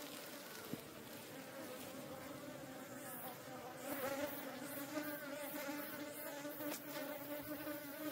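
Korean native honeybees buzzing close around the microphone, a wavering drone that swells as bees fly in near, with a few faint ticks from bees head-butting the camera as the colony defends its nest.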